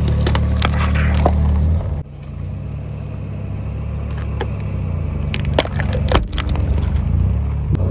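Car engine running low and steady as the tyres roll over plastic lighters, which crack and snap: a few cracks in the first second or so, then a cluster of sharper cracks about five and a half to six seconds in. The engine sound drops suddenly about two seconds in.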